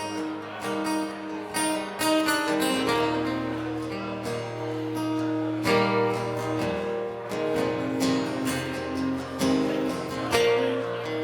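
Two acoustic guitars playing an instrumental passage, strummed chords under picked melody notes, with no singing.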